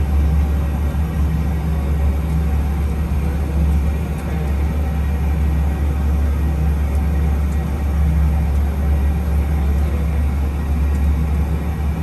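Boeing 737 flight simulator's cockpit sound: a steady, loud, low rumble of simulated engine and airflow noise in cruise.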